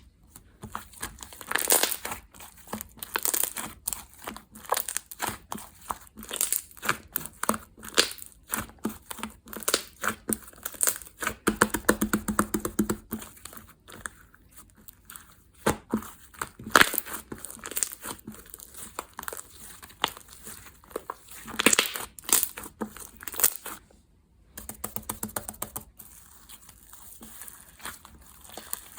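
Slime being squished and stretched by hand, giving a dense, uneven run of small pops and crackles, with a brief pause about 24 seconds in.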